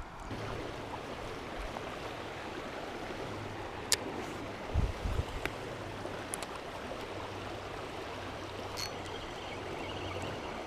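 Steady flow of a small river running past, with one sharp click about four seconds in and a few low thumps just after.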